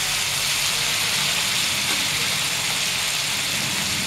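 Raw prawns frying in hot oil with chopped onions and green chillies in a frying pan: a steady sizzling hiss over a faint low hum.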